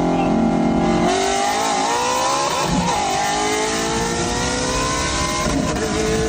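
High-performance car engine pulling hard under acceleration, its pitch climbing steadily, with a break in the rise about a second in and again near the end, like gear shifts.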